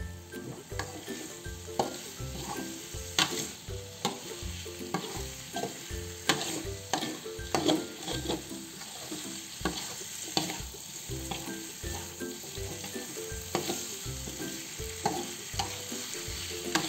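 Squid stir-fry sizzling in a metal wok while a metal spatula scrapes and knocks against the pan as it is stirred and turned, in repeated irregular strokes.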